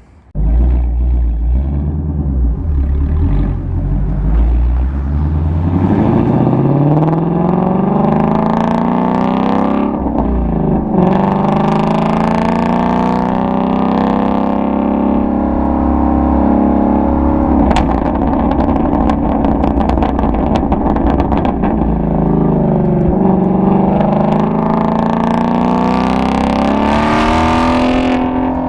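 Ford Mustang Shelby GT350's 5.2-litre flat-plane-crank V8 driving: a low rumble, then the revs climbing, falling sharply about ten seconds in, climbing again, and falling to a dip a little past twenty seconds before a final climb. Exhaust pops and crackles come in while it eases off.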